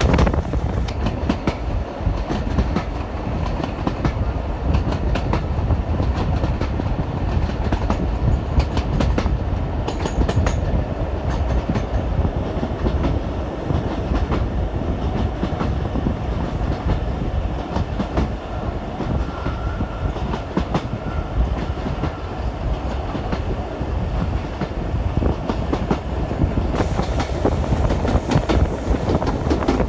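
Jacobite steam train's carriages running along the track, heard from a carriage window: a steady rumble of the wheels with clicks over the rail joints.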